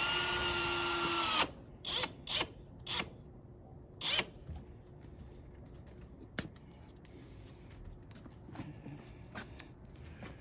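Power drill driving a screw: one run of about a second and a half, its whine climbing to speed and then holding steady, followed by four short trigger bursts as the screw is snugged down.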